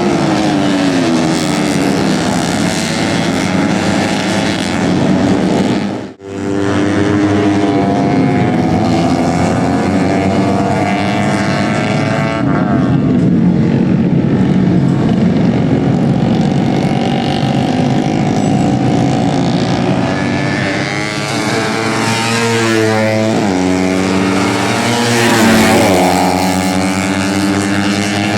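Several tuned 130 cc four-stroke underbone race motorcycles running at high revs. Their engine pitch climbs and drops with throttle and gear changes, with overlapping engines near the end. The sound cuts out suddenly for a moment about six seconds in.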